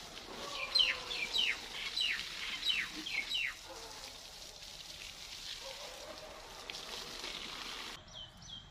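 A bird singing a run of about six falling whistled notes, roughly two a second, over a steady faint hiss.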